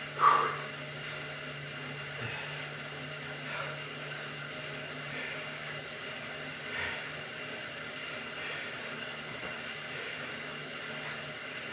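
Stationary exercise bike whirring steadily as it is pedalled, a low even hum that fades out about a second before the end, with a brief louder sound just after the start.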